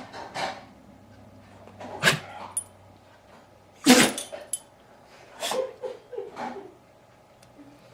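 A dog sneezing over and over in a fit it can't stop: several short, sharp sneezes a second or two apart, the loudest about four seconds in, with smaller ones close together near the end.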